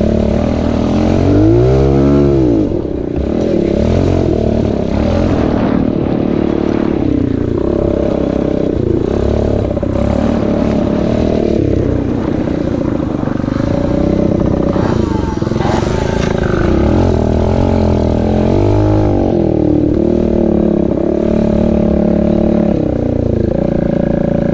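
Pit bike engine running under way, its pitch rising and falling as the throttle is opened and closed, with a sharp rev up and back down about two seconds in and again near the three-quarter mark.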